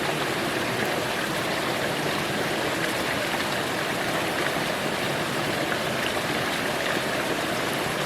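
Mountain creek water rushing over rocks, a steady even noise.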